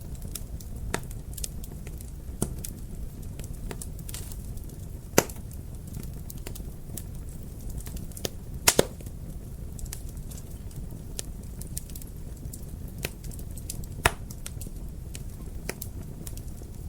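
Fireplace fire crackling: many small sharp snaps over a steady low background. The loudest pops come about five seconds in, as a quick double pop near nine seconds, and once near fourteen seconds.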